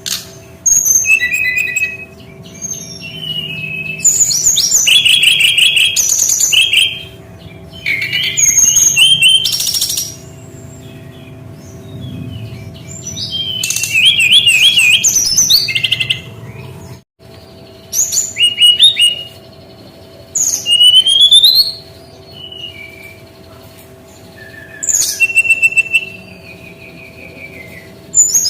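Brown-chested jungle flycatcher (SRDC) singing: bursts of rapid chattering notes and short rising and falling whistles, one to two seconds each with brief pauses, over a faint steady hum.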